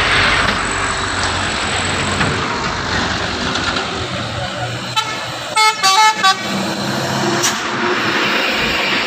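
Steady engine and road noise, with a vehicle horn tooted in three short, quick blasts about six seconds in.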